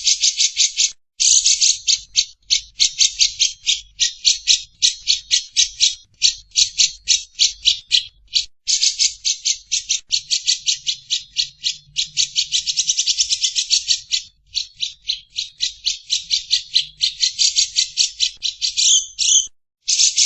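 Lovebird chattering in a long 'ngekek': a fast, unbroken run of short, harsh, rattling notes, several a second, broken only by a few brief pauses.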